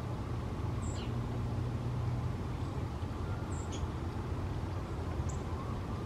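Three short, high, downward-sweeping chirps from small birds, spaced a couple of seconds apart, over a steady low rumble.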